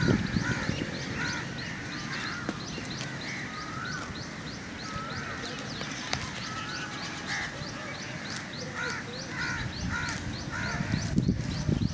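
Birds calling: a quick, steady run of short high chirps, several a second, with scattered lower calls among them.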